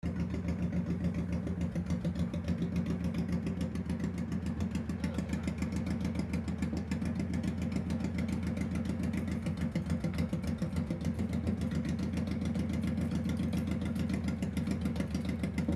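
2001 Honda Shadow Spirit 1100's V-twin engine running steadily, with an even, rapid firing pulse.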